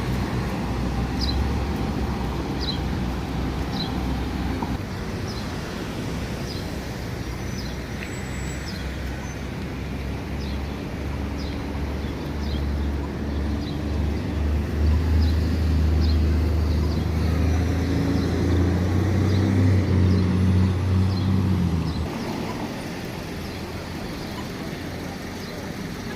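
A large engine's low, steady hum, building louder through the middle and cutting off suddenly about 22 seconds in, with faint short chirps repeating over it.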